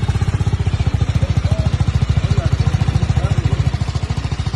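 Motorcycle engine running steadily at low revs, with a fast, even low pulsing beat.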